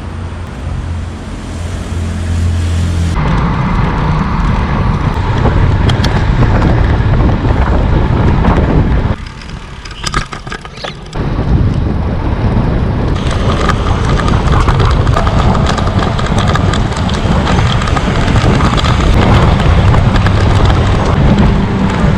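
Wind buffeting the microphone during a ride, a loud steady rumble mixed with road and traffic noise, dropping off briefly about nine seconds in before picking up again.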